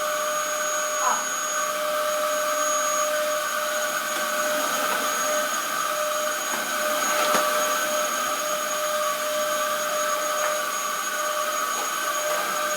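Vacuum cleaner running steadily, its motor giving a continuous whine over a rushing noise. A few brief sounds break in over it, one about a second in and a sharper one about seven seconds in.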